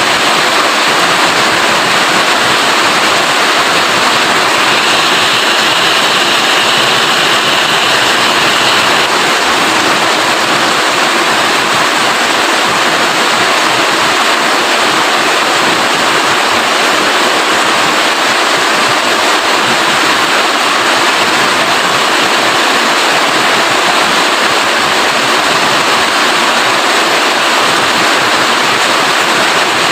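Rain falling in a steady, loud downpour, a dense even hiss. A slightly sharper hiss rises over it for a few seconds early on.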